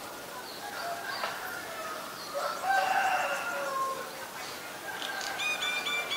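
Bird calls: a louder call lasting over a second, about two and a half seconds in, then a quick run of short, evenly spaced notes, about four a second, starting near the end.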